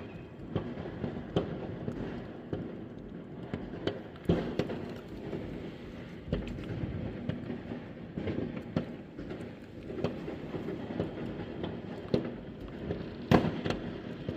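Many fireworks and firecrackers going off at once: a steady background of distant bangs and crackling, with irregular sharper bangs close by, the loudest one near the end.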